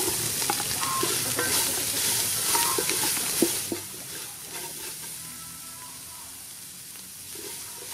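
Chopped onion and long beans sizzling in hot oil and curry paste in a metal pot, stirred with a wooden spatula that scrapes and knocks against the pot. The stirring knocks come in the first half, and the sizzle drops quieter after about four seconds.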